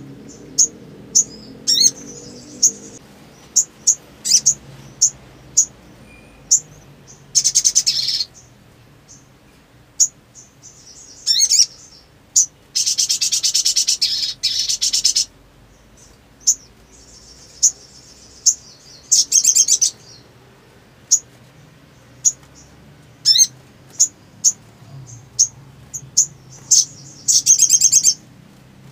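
A little spiderhunter (sogok ontong) calling: a string of short, sharp, high-pitched chips, broken four times by fast rattling trills. The longest trill lasts about two and a half seconds, in the middle.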